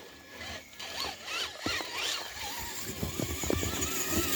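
Scale RC crawler's electric motor and gear drivetrain whining as the throttle is worked, the pitch rising and falling with motor speed and then holding steady for the second half. Short clicks and ticks from the gears and tyres are scattered through it.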